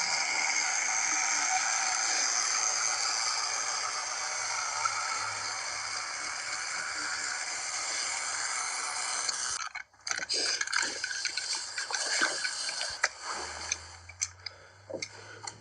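Battery-powered motorized toy trains running along plastic track with a steady whirring rattle, which cuts off suddenly about ten seconds in. Scattered plastic clicks and rattles follow as the trains are handled.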